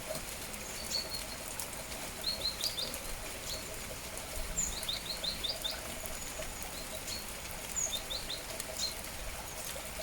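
Small birds chirping in quick runs of two to five high notes, several times, over a steady hiss of falling rain.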